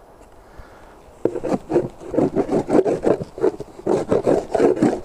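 Rapid, repeated rasping scrapes of wood on a wooden beehive crown board, starting about a second in and going on in quick strokes.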